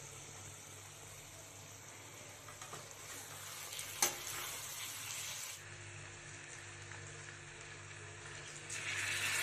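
Paneer masala sizzling in a hot kadhai as it is stirred with a spatula, with one sharp knock of the spatula against the pan about four seconds in. Near the end water is poured in, and the sizzle jumps louder as it hits the hot masala.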